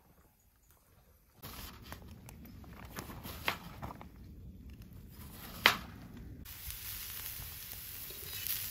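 Nearly quiet for about the first second and a half, then a knife cutting an onion on a wooden board, with two sharp knocks of the blade on the board. From about six and a half seconds in, diced onion sizzles in a steady hiss on a hot griddle plate over a wood fire.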